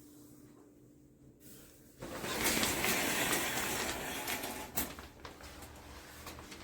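Shower water spraying: a rush of spray that starts suddenly about two seconds in, runs for about three seconds, then dies down, with a sharp click near the end of the spray.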